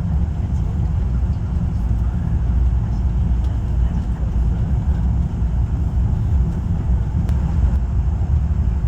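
Saemaeul-ho passenger train on the Honam Line running steadily, a continuous low rumble of the moving train.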